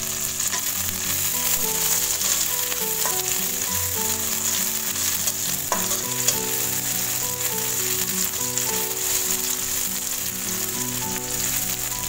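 Sliced shallots, garlic and red chillies sizzling in hot oil in a wok, stirred with a metal spatula that knocks against the pan a few times. A simple tune of held notes plays underneath.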